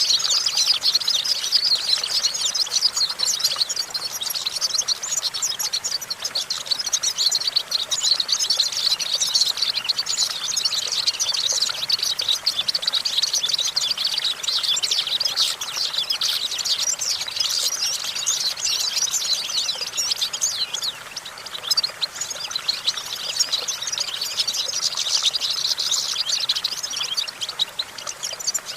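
European goldfinch singing: a continuous, fast, high twittering song with a brief slight lull about three-quarters of the way through.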